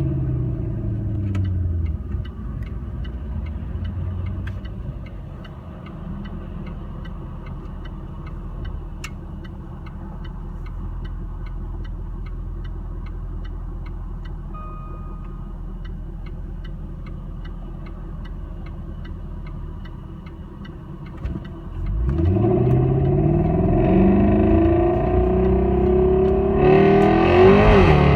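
Car engine and exhaust: revs fall away to a steady low running with a faint regular ticking of about two a second, then about three-quarters of the way through the engine is revved up hard and held at high revs, louder.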